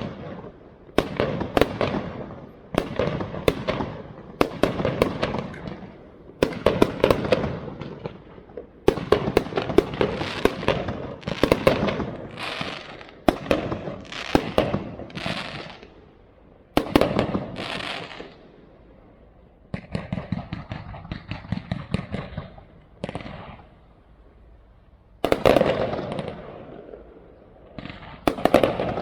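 Aerial fireworks going off in rapid volleys of bangs and crackles, in waves every second or two, with a short lull about two thirds of the way through before another loud burst.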